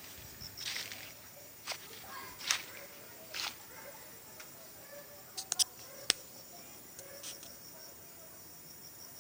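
Quiet outdoor background with a faint steady hiss, broken by scattered sharp clicks and taps, several louder ones close together around five and a half to six seconds in.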